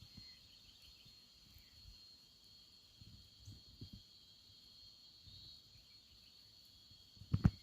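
Steady, high-pitched chorus of insects, with low, irregular rumbling thumps underneath and a louder pair of thumps near the end.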